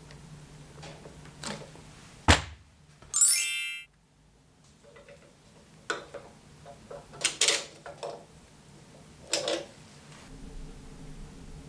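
Workshop handling noises: a series of sharp knocks and clicks of metal parts and tools, the loudest a hard knock about two seconds in. It is followed at once by a short rising whine that cuts off abruptly.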